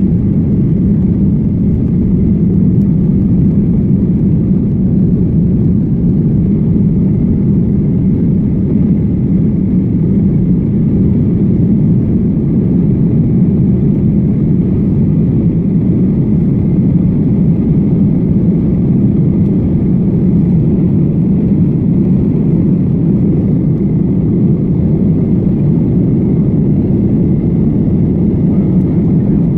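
Steady low rumble of a passenger airliner heard from inside the aircraft: jet engine and airflow noise, even in level with no rise or fall.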